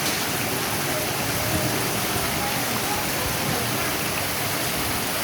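Mountain stream water rushing steadily over rocks, an even hiss of flowing water.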